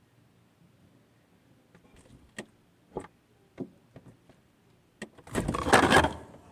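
Refrigerator heard from inside with the door shut: a few sharp knocks about half a second apart, then a loud burst of rustling and rubbing lasting about a second as the fridge door is pulled open.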